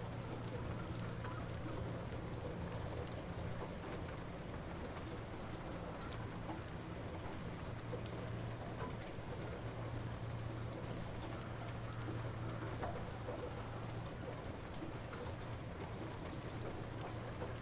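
Light rain falling steadily, with scattered small drips, over a constant low hum.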